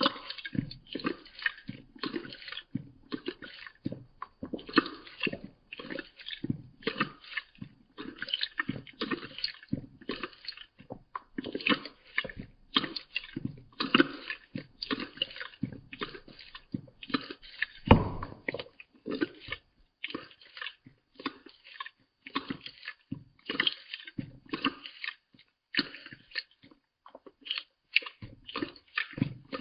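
Domestic cat lapping water with its tongue: a steady run of short wet laps, about three a second, one of them louder about two-thirds of the way through.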